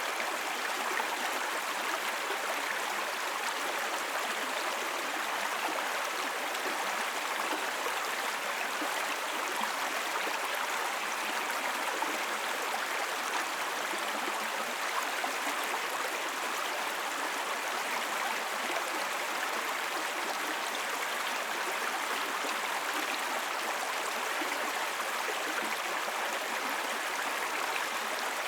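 Small brook babbling: shallow water running steadily over stones, an even rushing trickle with no change.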